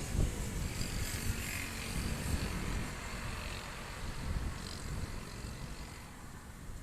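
Strong wind gusting, with an irregular low rumble of wind buffeting the microphone and a hiss above it, easing off gradually.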